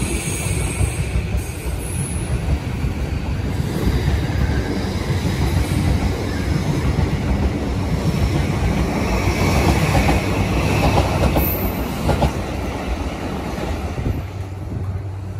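E235 series 1000 electric train running past along the platform, its wheels rumbling and clattering on the rails with some high squeal. The sound drops away near the end.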